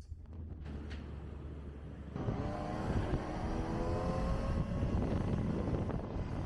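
Kawasaki Ninja ZX-25R's inline-four engine running low and steady, then about two seconds in getting louder and rising in pitch as the bike accelerates.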